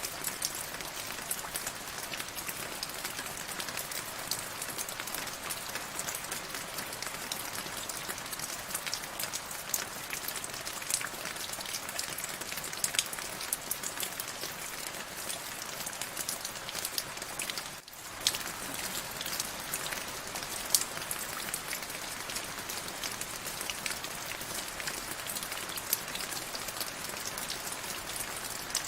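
Steady rain, with many separate drops ticking sharply through it; the sound dips out for a moment about two-thirds of the way through.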